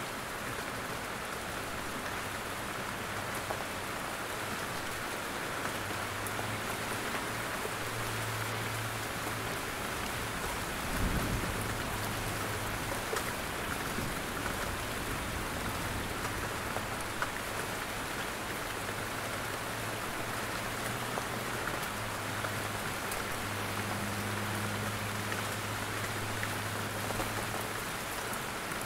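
Steady rain falling through forest trees, with many scattered individual drops pattering. There is a single low thump partway through.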